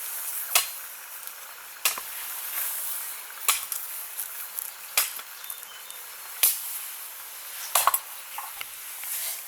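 Six sharp knocks, about one every second and a half, over a steady high hiss.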